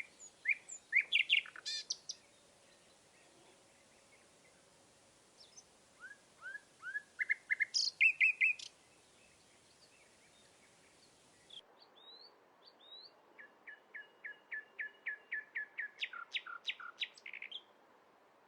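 Songbirds singing in three separate phrases of quick, sliding, whistled notes. The last phrase is a long run of rapidly repeated notes, about four a second.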